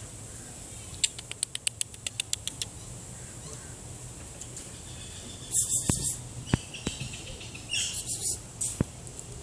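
A quick run of about a dozen sharp clicks, then two short bursts of very high-pitched animal chirping near the end.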